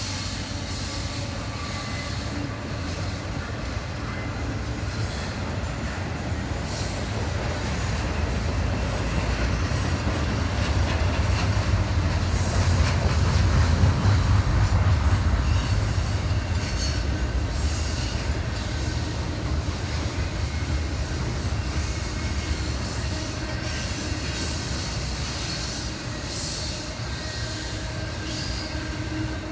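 Freight train rolling past, with a steady low rumble that builds to its loudest about halfway through and then eases off. Thin high-pitched wheel squeals come and go over it.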